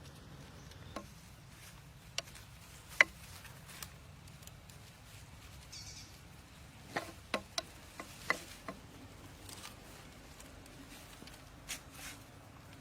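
Scattered small sharp clicks and taps over a faint low hum: a loud one about three seconds in, a quick cluster from about seven to eight and a half seconds, and a couple more near the end.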